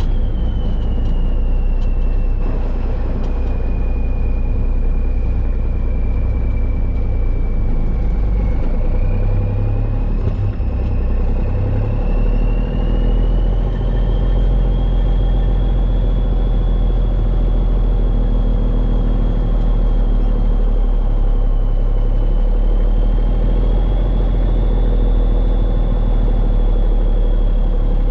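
Peterbilt 377 dump truck driving slowly while spreading base rock from its raised bed. Its engine gives a steady low rumble under a thin whine that drops over the first few seconds, then climbs and holds.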